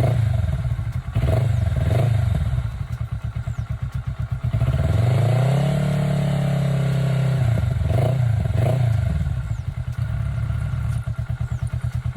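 Kawasaki Ninja 400R's parallel-twin engine idling with short throttle blips, then held at higher revs for about three seconds before dropping back to idle and blipping twice more. The bike is running after three months without being started.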